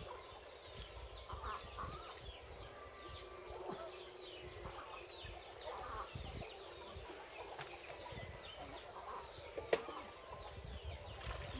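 Faint birds chirping and clucking in the background, with two sharp clicks in the second half.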